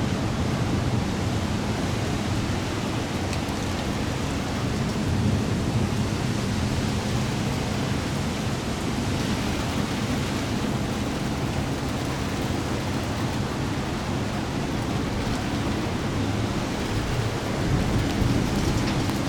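Thunderstorm rain falling steadily, with a low rumble underneath.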